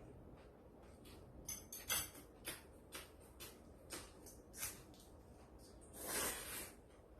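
Light clicks and taps of handling, one or two a second, with a brief rushing noise about six seconds in.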